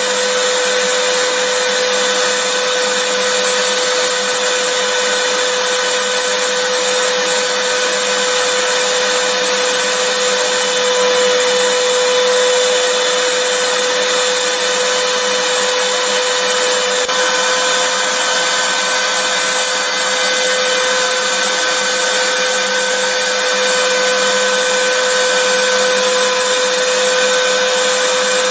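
Vacuum cleaner motor running steadily, a constant rushing of air with a steady whine held at one pitch.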